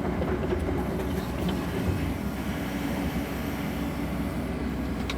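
Sany mini excavator's diesel engine running steadily while the machine digs.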